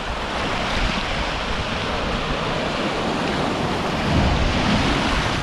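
Ocean surf washing on a sandy beach, a steady rushing noise, with wind buffeting the microphone and a stronger gust about four seconds in.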